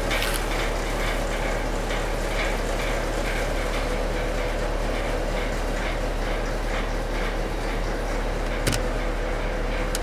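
Steady sizzling hiss from the fire-heated, water-doused steel and interior of a truck cab, over a steady low hum. A single short click near the end.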